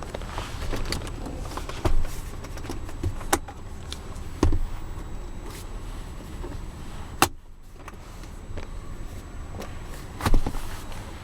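Knocks and thumps, about five of them, with shuffling and rustling, as a person moves about in the back seat of a car.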